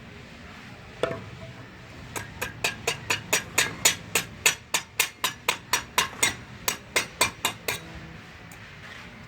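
Hammer blows: a single knock about a second in, then a quick, even run of some two dozen sharp strikes, about four or five a second, that stops shortly before the end.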